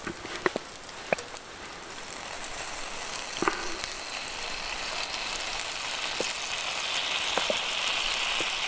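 Partly frozen cream with butter and shallots sizzling in a hot cast iron pan, the sizzle growing steadily louder as it heats, with a few sharp clicks scattered through it.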